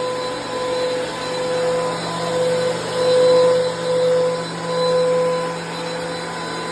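DeWalt power planer running, a steady motor whine over a rushing noise that swells louder several times.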